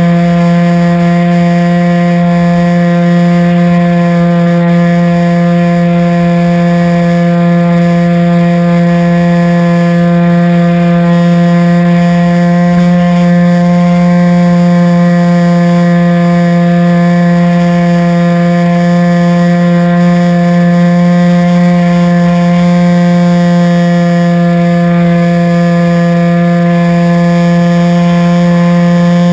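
Radio-controlled airplane's motor running at a steady throttle, a loud, even drone at one constant pitch.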